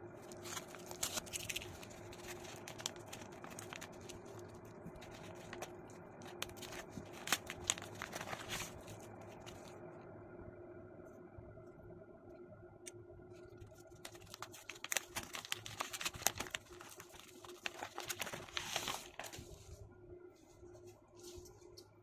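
Crinkling and rustling of something being handled, in several bursts: near the start, in the middle, and a longer stretch late on, over a steady faint hum.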